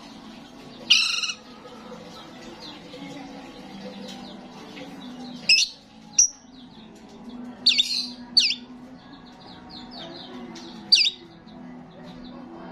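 Starling singing: loud, sharp calls that sweep down in pitch, about six in all, with softer rapid chatter between them. A steady low hum runs underneath.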